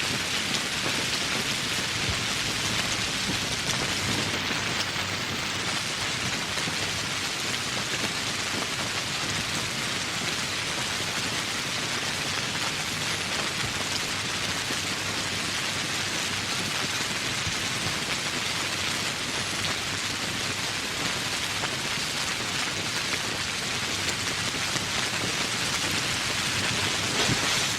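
Steady tropical rain falling, an even hiss of countless drops on surfaces, a little heavier near the end.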